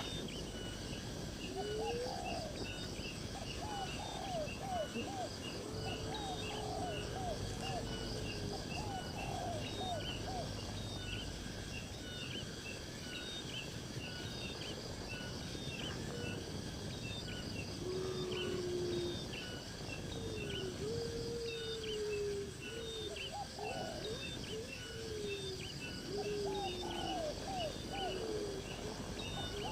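Birds calling in short sliding notes over a steady, evenly repeated high chirping of insects.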